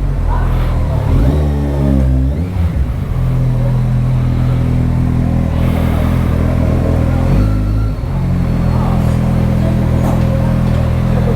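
Kawasaki Ninja 1000's inline-four engine running at low revs, with a brief rise and fall in revs about two seconds in.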